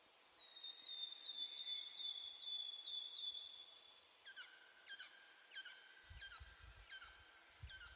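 A bird calling outdoors: a quick run of high repeated notes, then a slower series of lower, ringing notes. A low rumble comes in near the end.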